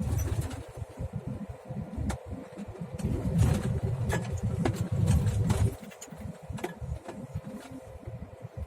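Semi-truck's diesel engine running under load, a heavy low rumble heard from the cab, with scattered sharp knocks and rattles; the rumble eases off suddenly about six seconds in.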